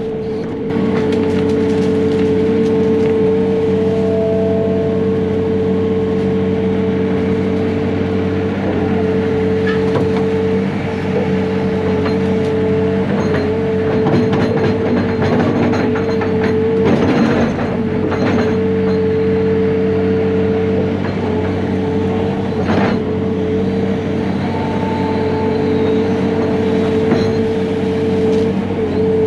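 Diesel engine of heavy earthmoving equipment running steadily under power, with a steady whine over the engine note and scattered clanks and knocks from the machine working.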